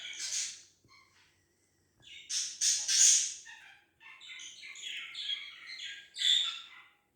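Cockatiels chirping and squawking in bursts of several calls, with short pauses between them; the loudest burst comes about three seconds in.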